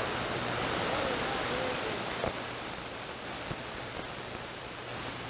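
CB radio receiver hissing with static on an open channel between transmissions, with faint wavering traces of a distant signal in the first couple of seconds and a low hum underneath. The static slowly fades, with a couple of small clicks partway through.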